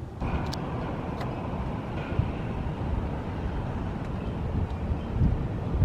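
Wind rumbling on the phone's microphone outdoors, with a steady low traffic-like noise and a couple of light clicks about half a second and a second in.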